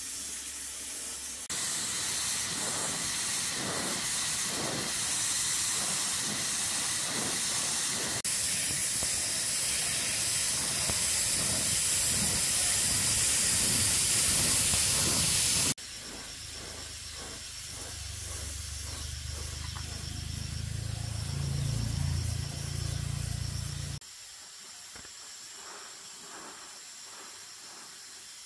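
A loud, steady hiss, cut in and out in a few separate takes. It gives way to a lower mechanical hum that rises in pitch, and then to a quieter stretch.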